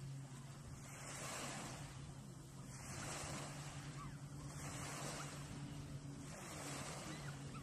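Small waves breaking and washing up onto a sandy beach, the surf swelling and easing every two seconds or so, with a steady low hum underneath.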